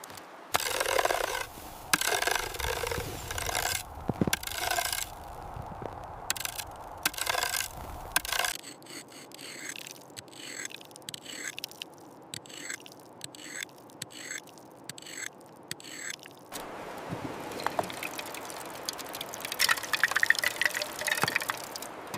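Hand tools scraping and chopping at ice and frozen ground: irregular heavy scrapes at first, then a run of many short sharp strikes, then a steadier scraping stretch near the end.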